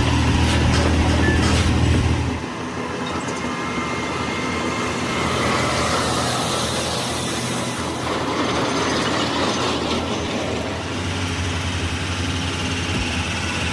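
Heavy vehicle noise: a deep, steady engine drone for about the first two seconds, then a rougher, noisier rumble for the rest.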